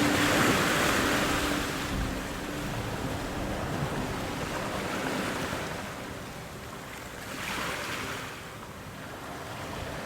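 Ocean waves washing in on a shore: a wave surges in at the start and fades, and a smaller wave swells and breaks about three-quarters of the way through.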